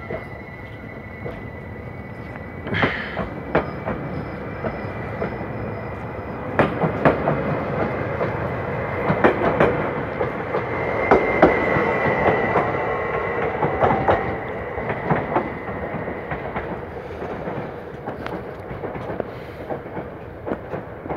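Stadler FLIRT electric multiple unit pulling away and running past: wheels clacking over the rail joints, the clacks coming faster and loudest around the middle, then fading as the train draws off. A steady high whine sits under it.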